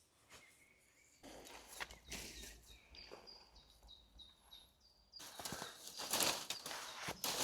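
Footsteps crunching on the forest floor in two spells of uneven steps, with a short run of faint high bird chirps in the pause between them.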